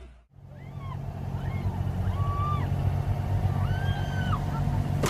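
A motor running steadily with a low rumble, starting just after a cut. Over it come several high, pitched calls that rise, hold and fall, one after another about once a second.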